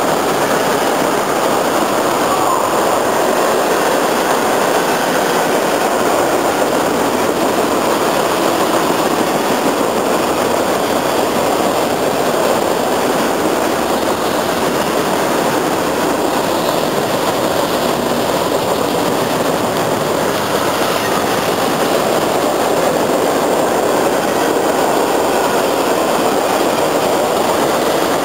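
A train passing, its cars rolling on the rails in a steady, loud, even noise that holds without a break.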